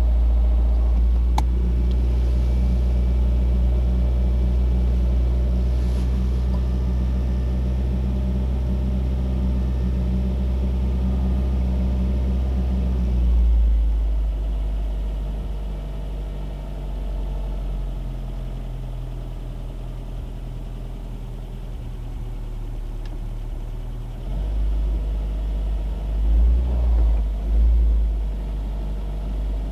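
Citroën DS four-cylinder engine running steadily while driving, with a heavy low rumble. About halfway through the engine note drops and eases off, and near the end the low rumble swells again with a few bumps.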